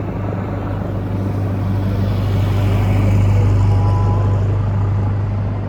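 Motor vehicle engines running with a steady low hum, the traffic noise swelling around the middle and easing toward the end.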